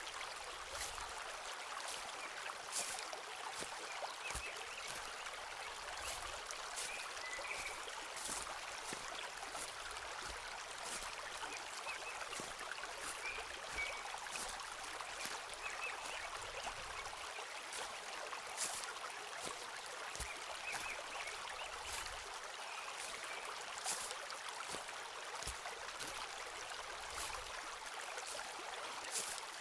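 Footsteps on a forest path, with sharp crunching clicks and soft thuds at an irregular walking pace, over the steady rush of a nearby stream. A few faint high chirps come and go.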